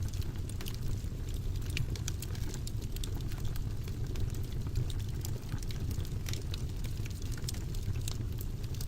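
Wood fire burning in a fireplace, a steady low rumble of flames with frequent small irregular crackles and pops.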